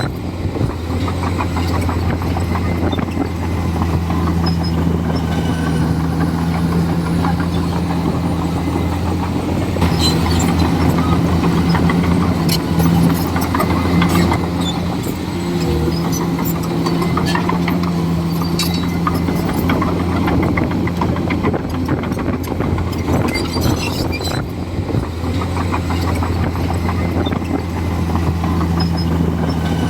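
Komatsu D41E bulldozer's diesel engine running steadily, with frequent clanks and cracks from the tracks and the material being pushed.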